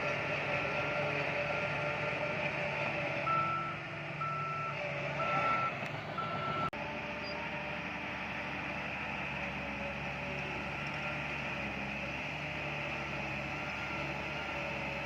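Reversing alarm of a heavy construction vehicle beeping at a steady pace of roughly one beep a second, over the steady running of heavy machinery engines. The beeps stop abruptly about seven seconds in, while the engine noise carries on.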